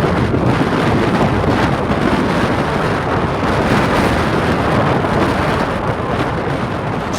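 Strong wind blowing hard and buffeting the microphone in a loud, steady rush.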